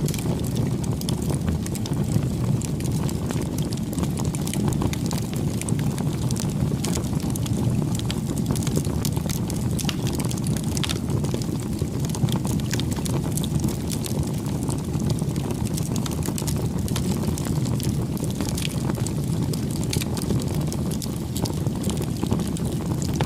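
Bonfire of burning wood: a steady low rumble of flames with frequent sharp crackles and pops scattered throughout.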